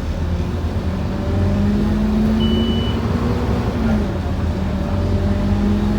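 Scania N230UD OmniCity bus's five-cylinder diesel engine running under way, heard from inside the cabin, with its pitch rising slightly as it pulls. A short high beep sounds about two and a half seconds in.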